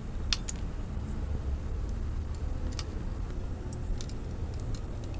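Wood fire crackling: scattered sharp pops and snaps over a steady low rumble, the loudest pop about a third of a second in.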